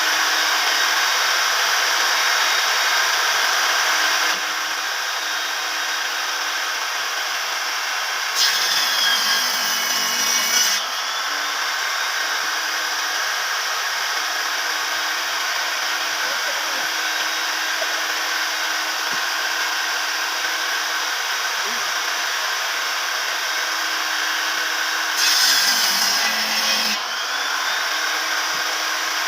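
Electric power tool running steadily on wood, with a constant hum under a hissing cutting noise. It gets louder twice, for about two seconds each time: a third of the way in and again near the end.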